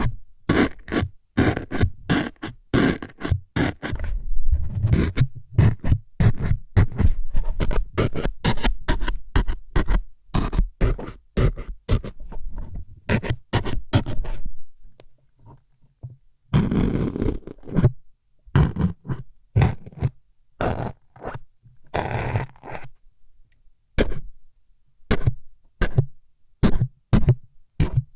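ASMR 'needle-stabbing' trigger sounds: rapid, irregular jabs and scrapes close to the microphone, with a short lull about halfway through and a few longer scraping strokes after it.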